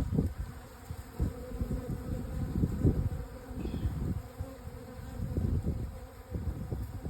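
Honey bee swarm buzzing, many bees in flight close to the microphone, the hum swelling and fading as they pass.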